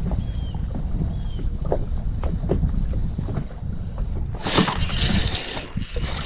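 Low wind rumble on the microphone aboard a fishing boat, with scattered knocks, then a sudden loud rush of hissing noise about four and a half seconds in.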